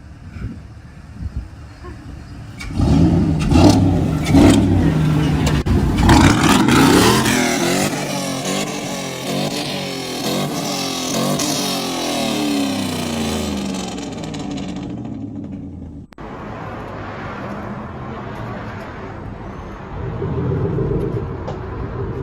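A pickup truck's loud exhaust revs up hard about three seconds in, its engine pitch sliding down over several seconds as the sound fades. After a sudden break a quieter engine runs steadily, swelling again near the end.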